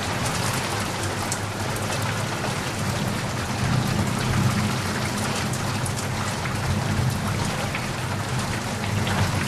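Steady rain falling, with many individual drops tapping close by over a low, steady rumble.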